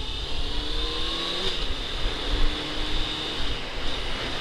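Honda CBR600 sport bike's inline-four engine pulling under acceleration, its pitch rising for about a second and a half, then dropping as it shifts up and running steady, under a rumble of wind and road noise.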